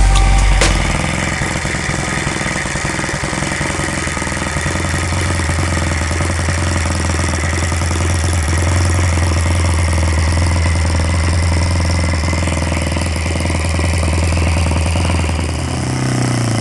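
Magnum XL 52 model aircraft engine running on test: louder for the first second, then settling to a steady low-speed run, with its pitch rising near the end as the throttle is opened.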